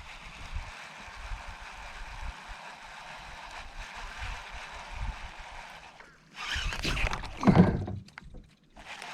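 Steady hiss of water and wind around a kayak, then about six and a half seconds in a loud splash lasting over a second: a bass striking at a topwater frog lure.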